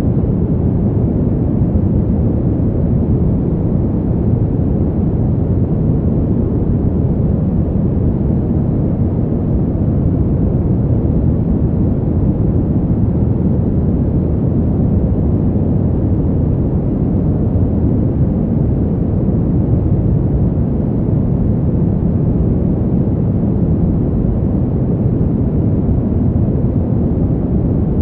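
Steady winter wind noise: a low, even rush with little high end, holding level without gusts.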